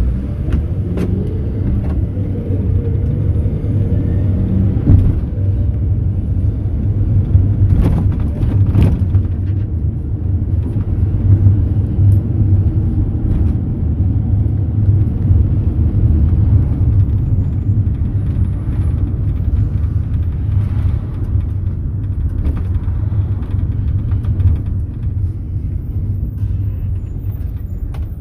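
Mercedes-Benz Sprinter minibus under way, heard from inside the cabin: a steady low rumble of engine and road, with a few short rattles and knocks.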